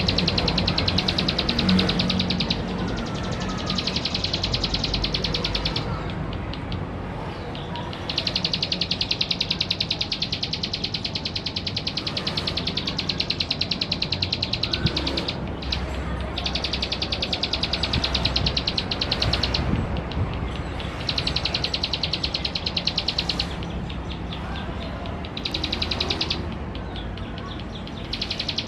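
Male ciblek sawah, a small prinia, singing: bursts of fast, buzzy trilled notes, each lasting one to four seconds, repeated about eight times with short pauses between.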